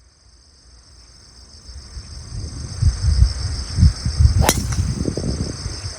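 Golf club striking the ball on a tee shot, a single sharp crack about four and a half seconds in. Wind gusts on the microphone build through the clip, over a steady chorus of insects buzzing.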